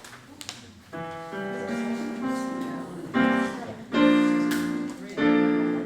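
Piano playing a short lead-in for the chorus: a few notes entering one after another about a second in, then full chords struck roughly once a second, each ringing and fading.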